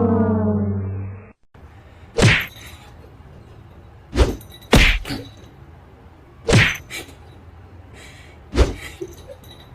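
A falling, horn-like tone fades out about a second in, then five short thumps or knocks follow one by one over the next several seconds.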